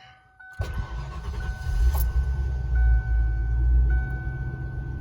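Ford 5.0-litre V8 cranking and catching about half a second in, then running at a fast idle that swells twice before settling. A steady electronic warning tone sounds throughout.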